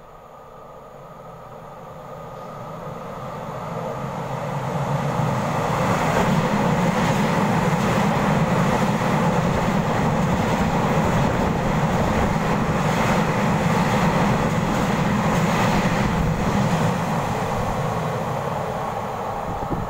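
Taiwan Railway EMU3000 electric multiple unit passing through an underground station platform without stopping. The rumble builds over about five seconds as it approaches, stays loud and steady as the cars go by, and fades near the end as it draws away.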